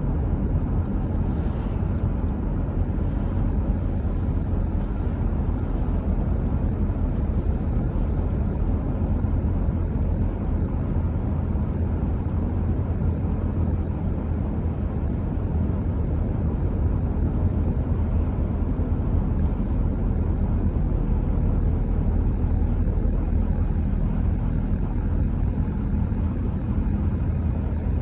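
A car driving at a steady speed: a continuous low rumble of tyre and engine noise.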